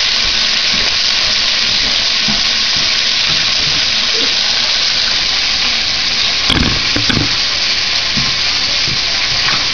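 Chicken pieces browning in hot grease: a steady, loud sizzle, with two short knocks about two-thirds of the way through.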